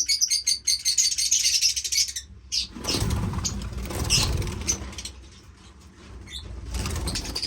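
Lovebirds, a brood of young birds, chirping rapidly and continuously in high, rapid calls for about the first two seconds. A few seconds of broad rushing noise follow, with a shorter burst near the end.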